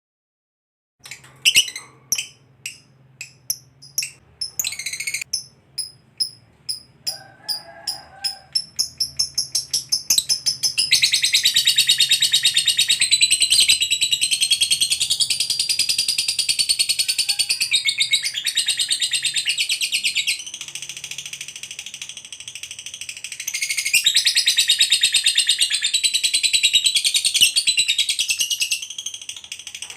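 Fighter lovebird singing: a run of separate sharp chirps that come faster and faster, then breaks into a long, rapid, continuous chattering trill (ngekek panjang). The trill dips briefly partway through, picks up again and stops just before the end.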